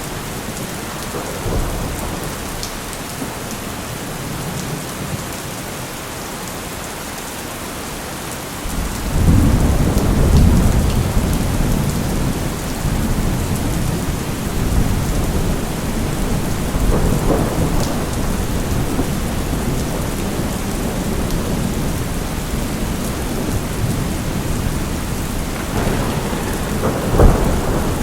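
Steady heavy rain with thunder. A long, loud roll of thunder builds about a third of the way in, weaker rumbles follow, and a sharper clap comes near the end.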